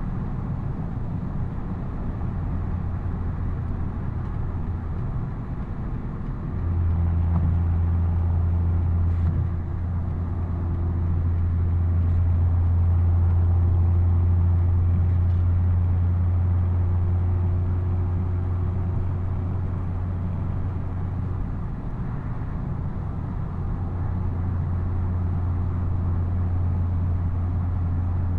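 BMW M240i's B58 3.0-litre turbocharged inline-six exhaust running at a steady, light-load cruise, a low continuous drone. It gets louder about six seconds in as the throttle is pressed, then eases off again near the end.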